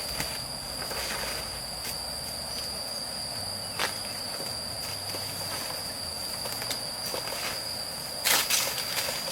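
Insects droning on one steady high note, with a sharp knock about four seconds in and a louder cluster of knocks near the end.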